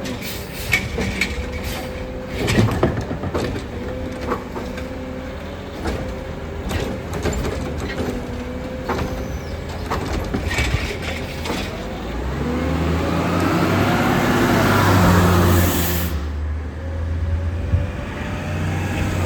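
CCC Heil Rapid Rail garbage truck's engine running with a string of sharp knocks and clanks. About twelve seconds in, the engine revs up with a rising whine under a loud hiss; the hiss cuts off abruptly and the engine drops back to idle.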